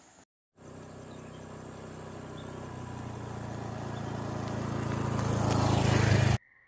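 A motor vehicle engine drawing nearer, growing steadily louder at an even pitch for about six seconds, then cut off abruptly.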